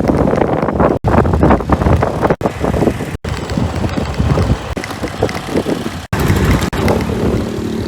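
Wind buffeting the microphone while riding a Suzuki Skydrive 125 scooter, with the engine running underneath. The sound drops out briefly four times. Near the end a steady engine drone comes through more clearly.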